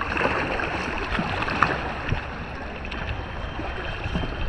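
Water splashing and sloshing as paddles dip beside a moving kayak, with a few light knocks.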